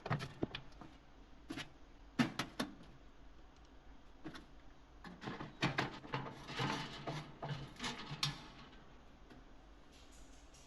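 Scattered clicks and light knocks of metal oven parts being handled as a screw is put into the oven's fan cover, with a busier cluster of handling sounds after about five seconds.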